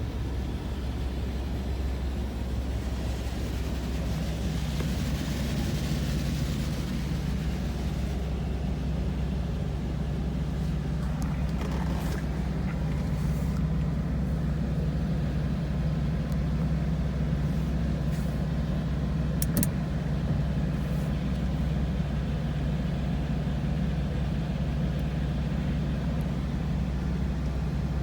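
D&S Quicksilver touchless car wash running its wheel-cleaning pass, heard from inside a truck cab: a steady low hum, with a rush of water spray hissing against the body a few seconds in, and a few sharp clicks later on.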